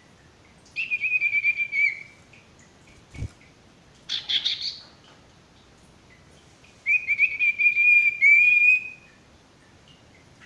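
Sirtu bird singing: two long, rapid trilled phrases held at about the same pitch, with a short harsher chirp between them. A brief low thump comes about three seconds in.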